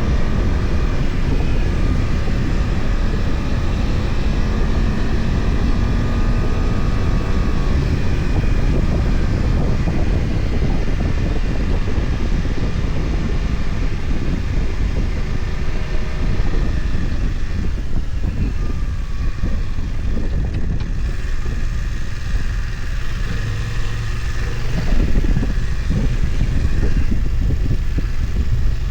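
BMW F900XR motorcycle's parallel-twin engine running on the move, with wind rushing over the microphone. The engine pitch rises and falls through the first part, and it gets louder a few seconds before the end.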